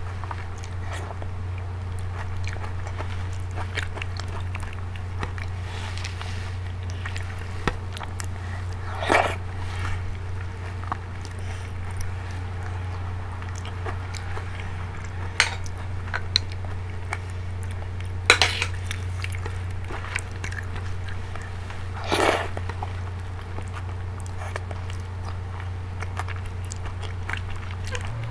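Close-miked mouth sounds of eating dal and rice by hand: wet chewing and lip smacks, with a handful of sharper, louder smacks or crunches spread through, over a steady low hum.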